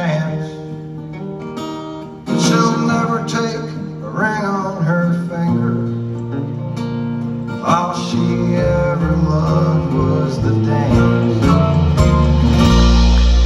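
Live country band playing an instrumental passage with guitar to the fore over bass, swelling into a loud sustained chord near the end.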